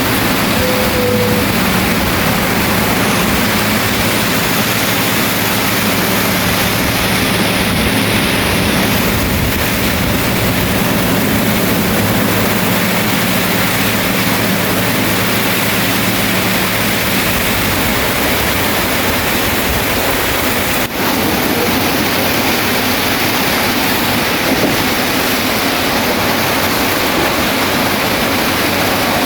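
Bulldozer's diesel engine running under a loud, steady hiss of rain. The engine's low hum fades about two-thirds of the way through, and the sound drops out briefly soon after.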